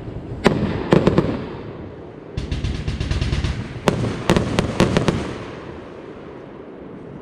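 Funke Blütenregen compound firework battery firing a string of sharp shot bangs. There is a rapid burst of crackling about two and a half seconds in, and the firing dies away about five and a half seconds in.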